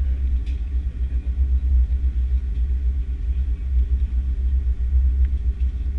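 Steady low rumble inside the cabin of an Airbus A330-300 airliner on the ground, with a faint steady hum above it.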